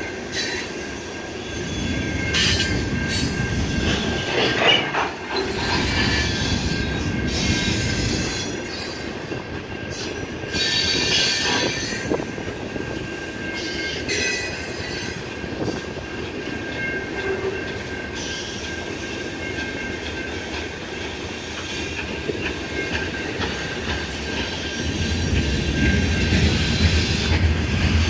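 Freight train of covered hopper cars rolling past, with a steady rumble of wheels on rail, a thin high wheel squeal held throughout, and spells of louder clatter from the trucks over the rail joints. The low rumble swells near the end.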